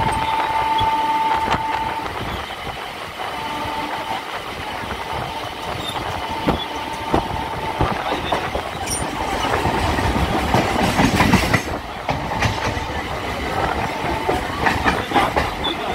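Local train running on the rails, its wheels clicking over rail joints under a steady rumble, with a thin high whine that comes and goes.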